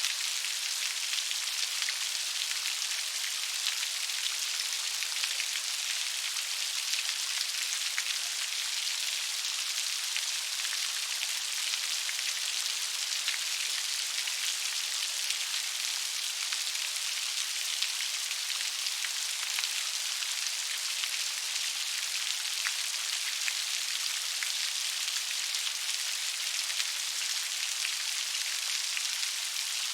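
Steady rain falling, an even hiss flecked with fine drop ticks and no low rumble.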